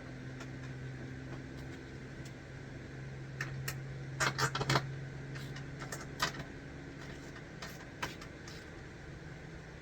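Light metallic clicks and rattles of mounting brackets and hardware being handled, in a quick cluster about four seconds in and once more near the end, over a steady low hum.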